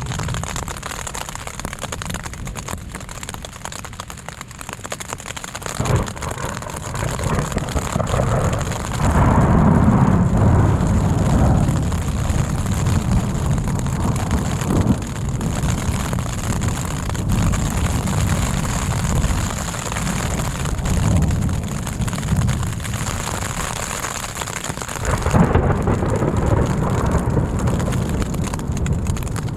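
Thunderstorm: steady rain with deep rolling thunder that swells a few times, loudest for a few seconds around ten seconds in and again near the end.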